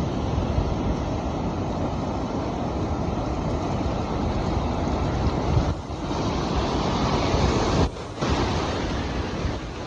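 Sea surf rushing with wind buffeting the microphone, a steady roar of noise that dips briefly twice, about six and eight seconds in.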